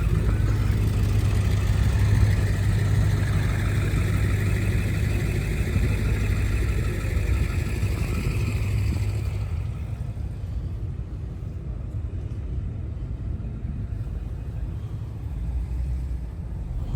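A vehicle engine running nearby with a steady low rumble, louder for the first half and easing off about ten seconds in.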